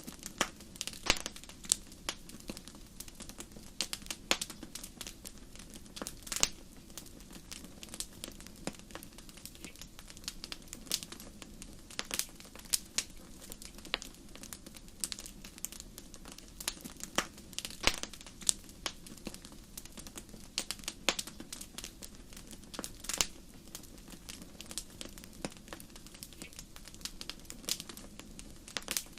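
Wood fire crackling: irregular sharp pops and snaps, several a second, over a soft steady hiss of the burning.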